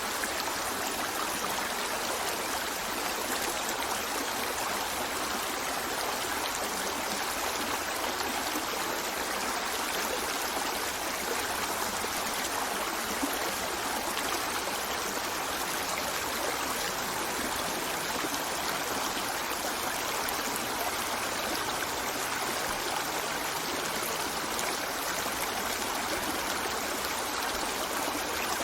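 Stream water running steadily over rocks, an even rushing and trickling with no breaks or changes.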